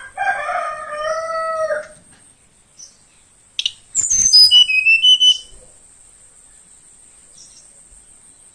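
A rooster crows once at the start. About four seconds in, a young velvet-fronted nuthatch gives a quick run of high notes that drop in pitch, the loudest sound. A steady high insect buzz runs underneath.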